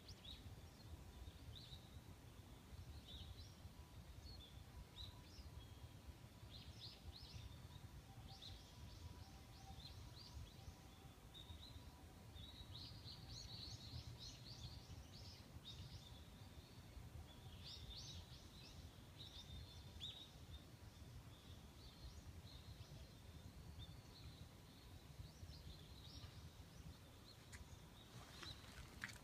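Faint outdoor ambience: small birds chirping now and then, high-pitched short calls in loose clusters, over a steady low rumble.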